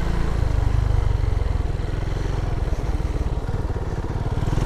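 Motorcycle engine running steadily, its firing pulses even and unbroken throughout.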